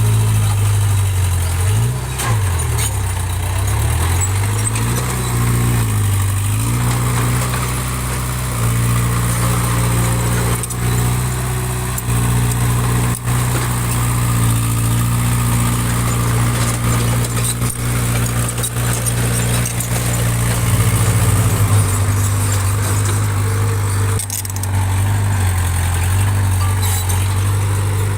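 Diesel engine of earthmoving machinery working under changing load. Its pitch dips and climbs several times in the first few seconds, then runs steady, and shifts again about three quarters of the way through.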